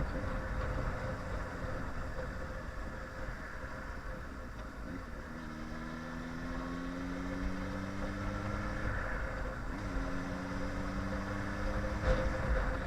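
Yamaha R1 inline-four engine running under way, over a steady low rush of wind. From about five seconds in, the engine note climbs slowly for a few seconds as the bike pulls through a gear, drops away briefly, then picks up again.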